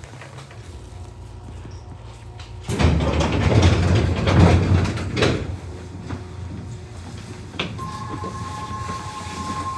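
Nishitetsu 600 series train's sliding doors closing: a loud rush of noise for about three seconds that ends in a knock. A click follows, then a steady whine sets in near the end over the car's low hum.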